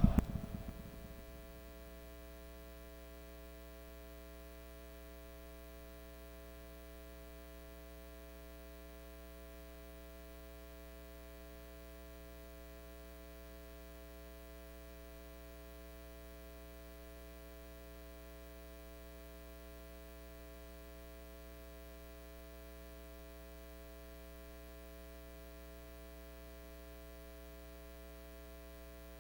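Steady electrical mains hum, a set of constant unchanging tones, with the echo of the reciter's last words fading out in the first second.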